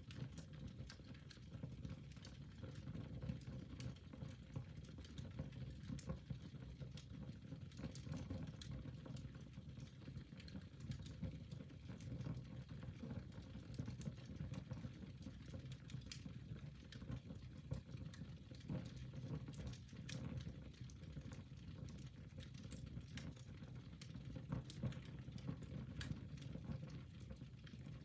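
Fire burning in a fireplace, crackling with scattered sharp pops over a steady low rumble of the flames.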